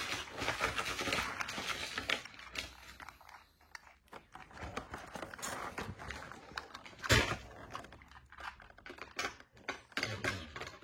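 Rubik's Cube being twisted by hand: quiet, irregular plastic clicks and rattles as its layers turn, with one louder click about seven seconds in.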